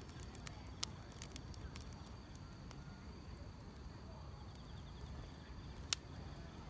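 Wood fire crackling with scattered sharp pops, one louder crack near the end, over a low rumble, and the steady high chirring of grass insects.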